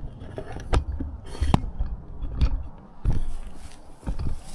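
Firewood and sticks being handled for a campfire: about five irregular knocks and scrapes of wood, with rustling in between.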